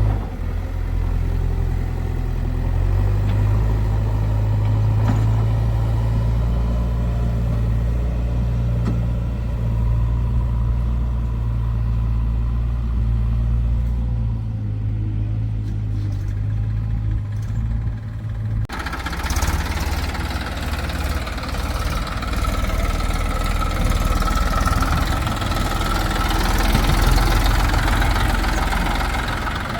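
Diesel engine of heavy machinery running steadily at a low, even note. About two-thirds of the way through, the sound changes abruptly to a harsher, noisier engine sound with a whine on top.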